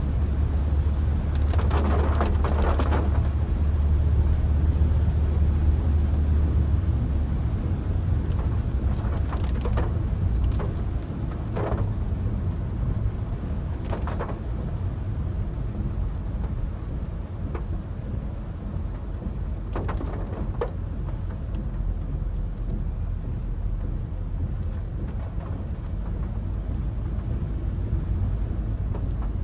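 Inside the cabin of a 2021 Honda Brio, its 1.2-litre four-cylinder engine pulls in second gear while heavy rain falls on the car. The low engine drone is strongest for the first several seconds and then eases, and a few short knocks come through.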